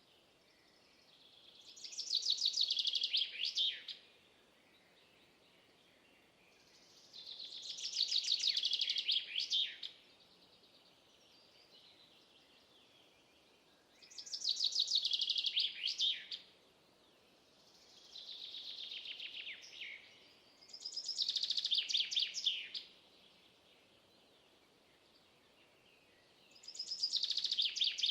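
A songbird singing the same fast, trilled phrase six times, each lasting two to three seconds with a few seconds' pause between, every phrase ending in quick falling notes. The fourth phrase is fainter, and a faint steady outdoor hiss fills the gaps.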